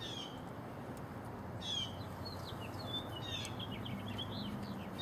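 Small birds chirping: quick high-pitched chirps, a short cluster about a second and a half in and a longer run from about two to four and a half seconds in, over steady outdoor background noise.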